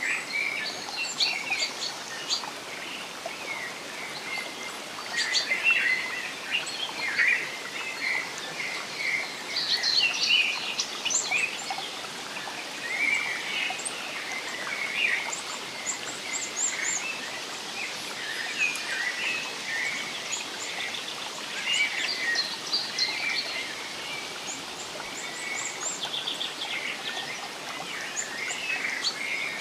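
Forest ambience: several songbirds chirping and trilling continuously, short overlapping calls from many directions, over a steady hiss.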